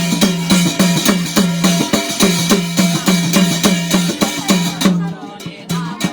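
Instrumental break in a Garhwali jagar devotional song: fast, steady drumming, about four strokes a second, each stroke with a deep pitched tone, over jingling percussion. The drumming thins out near the end.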